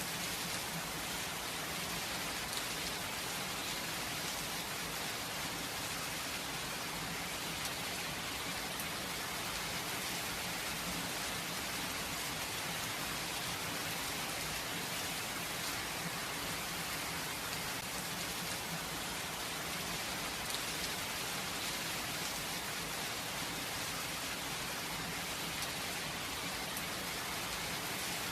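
Steady rain falling on surfaces, an even hiss with no thunder.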